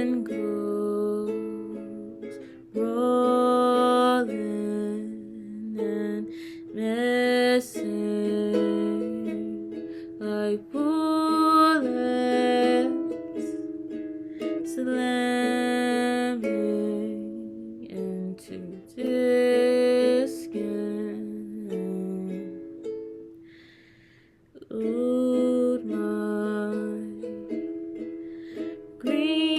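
Ukulele played with a voice singing along in phrases, a slow song in a small room. It drops to a brief near-silence about 24 seconds in.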